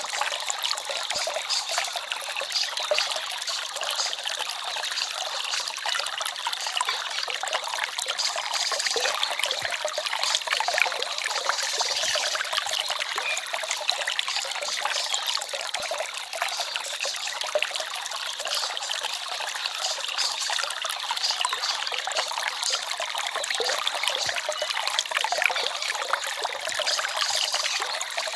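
Small forest stream trickling and babbling steadily, a continuous rush of small splashes with little low end.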